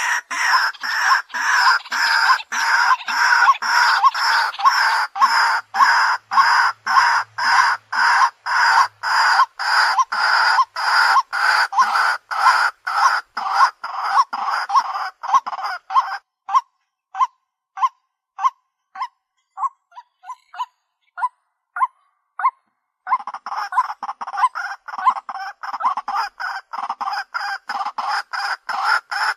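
White-breasted waterhen calls: a steady run of short, loud 'kwak' notes, about two to three a second, over a dense continuous background. The background drops away for several seconds past the middle, leaving the single notes on their own, then comes back.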